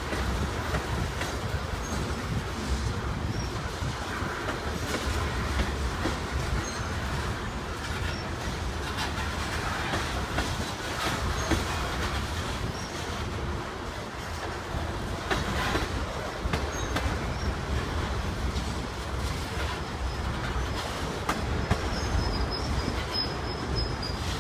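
Freight cars of a manifest train (covered hoppers and autoracks) rolling past: a steady rumble of steel wheels on the rails, with faint high wheel squeals near the end.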